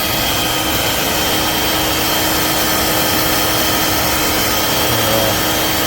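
Dirt Devil Vibe corded stick vacuum running steadily: a loud rush of air with a steady high motor whine.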